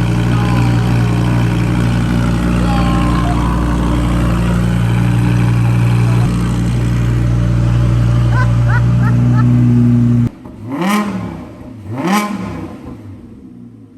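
Audi R8 V10 Plus's 5.2-litre V10 idling steadily through a newly fitted Quicksilver aftermarket exhaust. About ten seconds in, the steady sound stops abruptly and two quick revs follow, each rising and falling in pitch.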